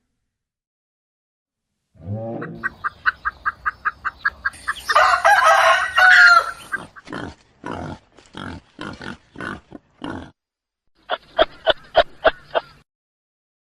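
Chicken calls: after a short silence, a fast run of clucks, then a louder, harsher cackling call, then more bursts of rapid clucking.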